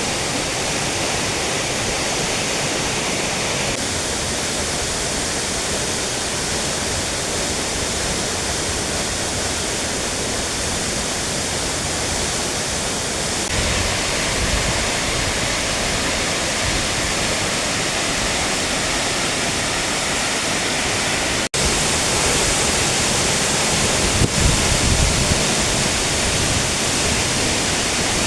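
Waterfall rushing with a steady, dense roar of falling water. It breaks off for an instant about three-quarters of the way through, with a few low rumbles soon after.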